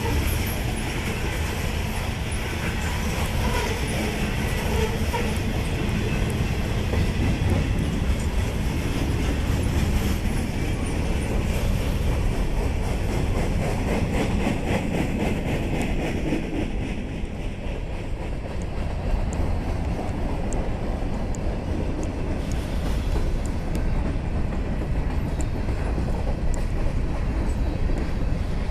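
Norfolk Southern freight train rolling past, a steady low rumble with wheels clicking over the rail joints.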